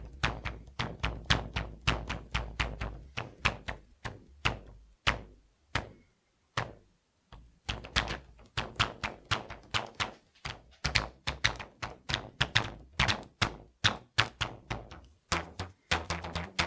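Rubber bands being plucked and snapped, a quick irregular series of twangs, several a second, each with a low ringing buzz. There is a short pause about six to seven seconds in.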